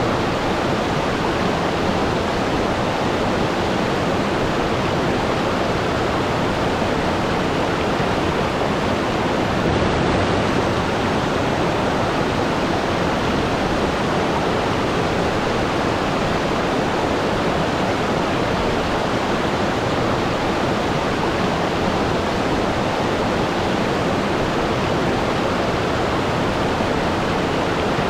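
Waterfall: water falling and splashing in a steady, dense rush with no change.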